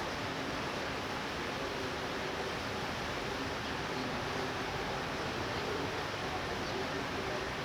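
Steady light rain, an even hiss with no distinct drops or swells standing out.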